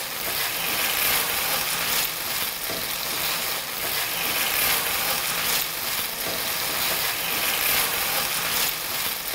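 Food frying in a hot pan: a steady sizzling hiss that swells slightly now and then.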